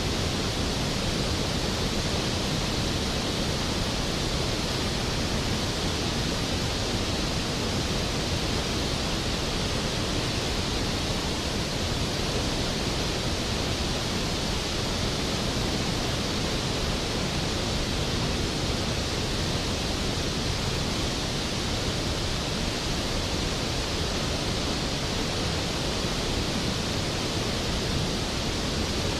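Skógafoss waterfall, a large glacial-river waterfall, falling in a steady, even rush of water noise with no change throughout.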